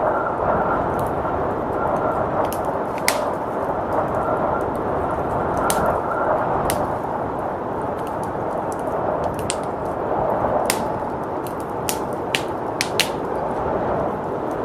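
Wood fire crackling with irregular sharp pops, over a steady rush of blizzard wind that whistles faintly now and then.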